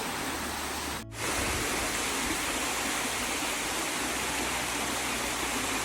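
Steady rush of water from a small waterfall, with a brief dropout about a second in.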